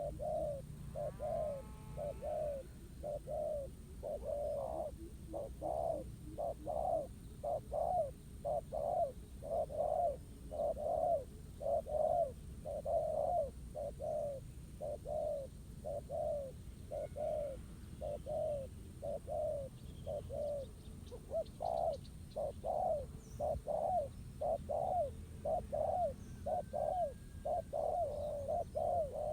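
Spotted doves cooing: a rapid, continuous run of low arched coos, about two a second. It is the territorial cooing of a wild male squaring off against a caged decoy dove.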